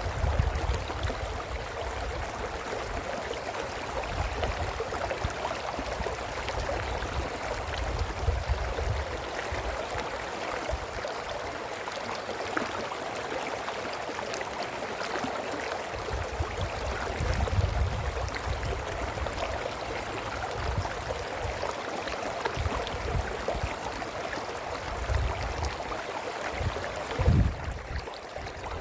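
Brook babbling and gurgling steadily. Low rumbles come and go beneath it, and there is a short low bump near the end.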